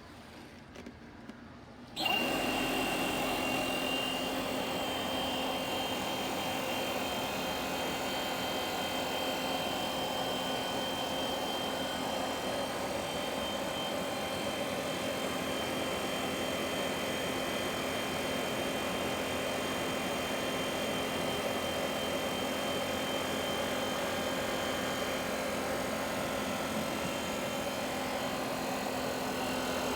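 Hitachi EC1443H high-pressure air compressor switching on abruptly about two seconds in and then running steadily: a motor hum with a thin, high whine over it.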